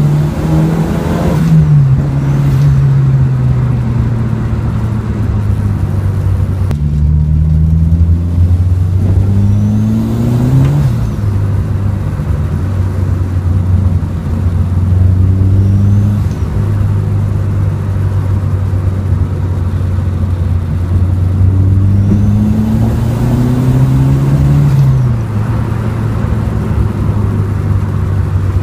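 Peugeot 205 GTi's turbocharged 2.0-litre eight-valve XU10J2TE engine heard from inside the cabin, driving on a wet road with tyre noise underneath. It runs at a steady pitch for long stretches. Twice, about ten seconds in and again after about twenty-two seconds, it climbs in pitch under acceleration and then drops sharply at a gear change.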